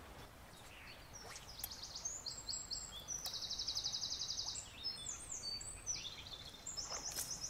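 A songbird singing: a run of high, quick notes with a fast trill in the middle, lasting several seconds, over the faint steady wash of a shallow river.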